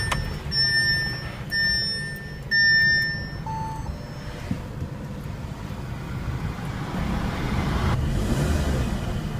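Audi A3's 1.8-litre TFSI turbocharged four-cylinder running just after start-up, a steady low rumble that grows louder in the last couple of seconds. Over it, a dashboard warning chime sounds three times about a second apart and then stops.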